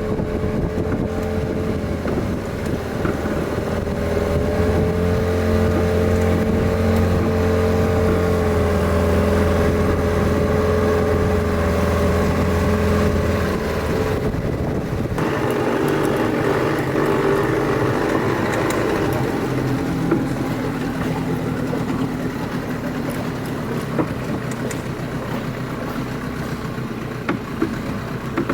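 Motorboat engine running steadily under way, its pitch wavering slightly. About halfway through, the sound changes to a lighter engine drone with much less bass.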